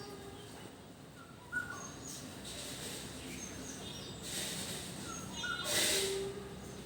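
Backyard birds chirping: short scattered whistled calls and high downward-slurred notes. Two brief hissing rushes of noise about four and six seconds in.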